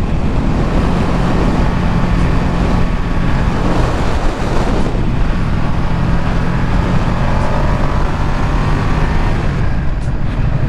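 Ducati Streetfighter V2's 955 cc L-twin engine running at a steady cruise while riding, under rushing wind noise. The engine note breaks off briefly about four seconds in, then settles back to a steady pitch.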